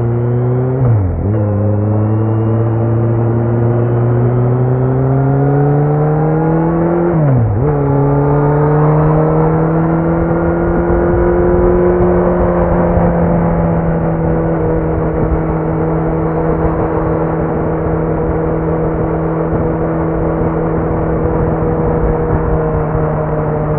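Kawasaki Z900's inline-four running through a Leo Vince muffler with no dB killer, under way on the bike. Its note climbs gradually, drops sharply and picks back up twice, about a second in and again around seven seconds in, then holds a steady drone.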